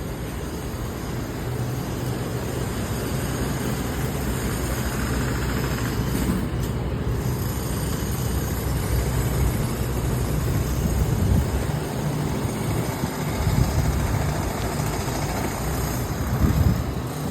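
Steady low rumble of city vehicle traffic under an even hiss, swelling briefly a few times.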